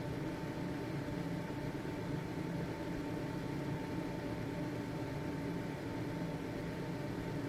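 Household ventilation fan running steadily: an even whoosh of moving air with a low motor hum and a faint steady higher tone.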